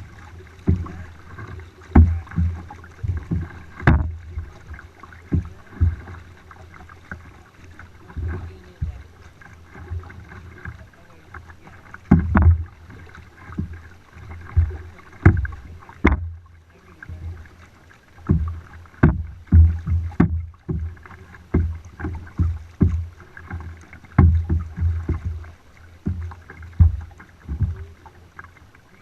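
Kayak being paddled: irregular low thumps and knocks, about one a second, over a steady low rumble of water and wind.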